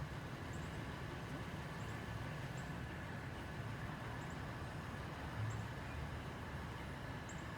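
Steady low rumble of distant road traffic, with a few faint, short high chirps.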